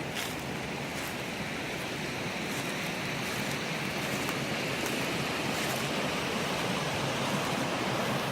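Steady rush of running water, growing slightly louder, with a few faint ticks over it.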